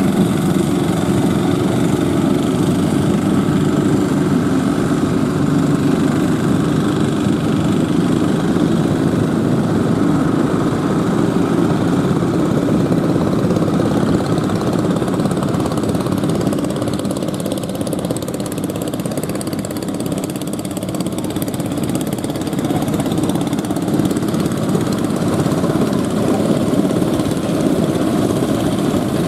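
Fishing boat engine running steadily, easing slightly about two-thirds of the way through.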